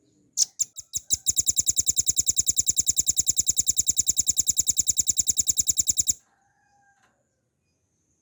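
Velvet-fronted nuthatch singing: a few spaced sharp notes, then a long, very even rapid trill of high notes, about ten a second, that stops abruptly after about five seconds.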